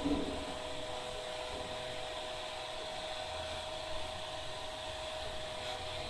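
Hair dryer blowing steadily: a continuous rush of air with a constant motor whine. A brief short sound right at the start.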